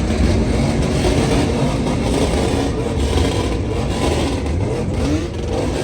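Car engines revving loudly, their pitch rising and falling.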